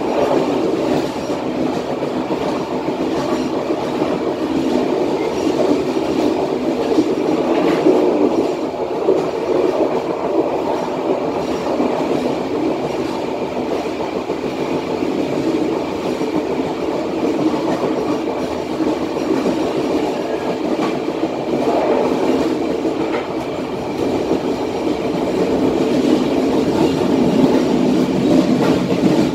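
Passenger train running steadily at about 60 km/h, heard from the rear end of the train: the steady noise of wheels on the rails, with faint clicks.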